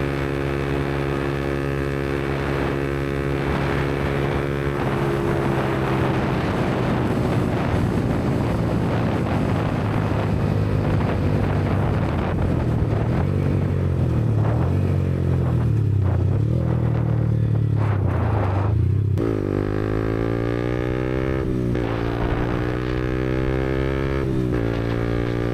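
Yamaha MT-125's single-cylinder four-stroke engine through a Black Widow aftermarket exhaust, running on the road. The engine note holds steady at first, then falls and wavers under a rushing noise. From about two-thirds of the way in, it revs up hard three times in a row, each rise cut off by a sharp drop as the bike is shifted up through the gears under acceleration.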